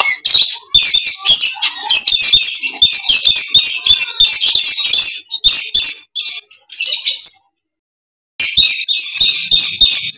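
Dusky lories screeching: a dense, loud run of short, harsh, high calls. About seven and a half seconds in, the calls drop out for about a second of silence before starting again.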